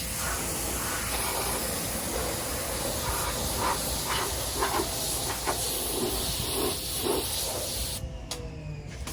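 Spray of water hissing onto vinyl siding, surging unevenly as the stream moves, then cutting off suddenly about eight seconds in.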